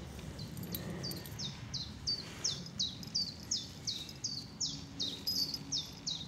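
A bird repeating a short, high chirp that slides downward, about three times a second.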